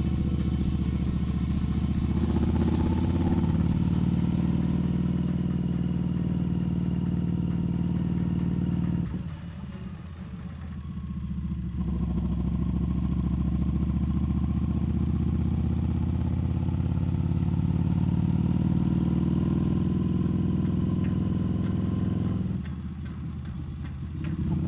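Harley-Davidson Street Rod 750's V-twin engine running under way. It drops off briefly about nine seconds in and again near the end, as the throttle is eased, and its pitch climbs again in between.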